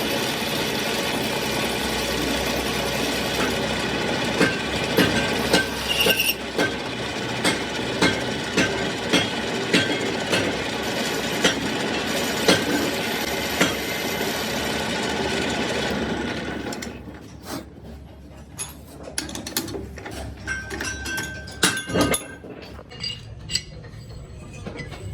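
A workshop machine runs steadily with regular sharp clicks and knocks, then cuts out about 16 seconds in. Scattered metal clinks and knocks follow as steel parts are handled.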